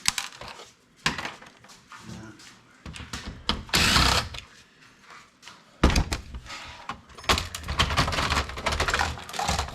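Thuds, knocks and metal clatter from a desktop computer being taken apart by hand, with a loud scraping burst about four seconds in and busier rattling from about six seconds on.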